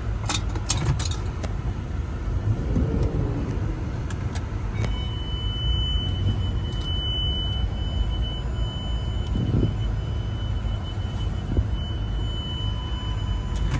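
Low engine and road rumble inside the cabin of a 2006 Range Rover Sport creeping slowly while being reversed into a parking space, its engine running hot. From about five seconds in, a steady high-pitched electronic tone sounds over it and stops near the end.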